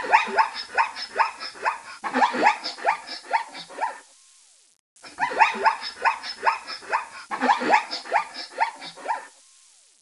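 Small dog barking in rapid yaps, about three to four a second, in two runs of about four seconds each with a short pause between them.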